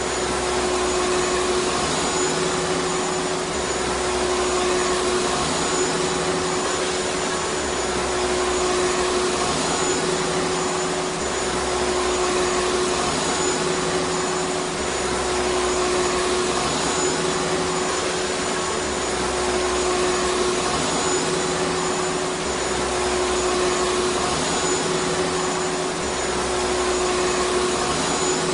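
Vacuum cleaner running continuously: a steady rush of air with a constant motor hum and a faint high whine. The low end swells and fades gently every couple of seconds.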